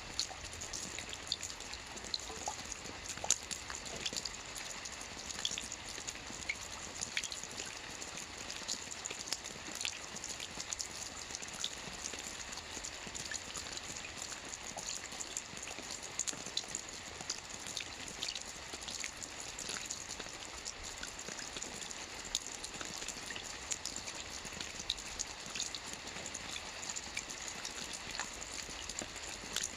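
Gentle light rain falling steadily with no thunder, a soft even hiss dotted with many small drop ticks.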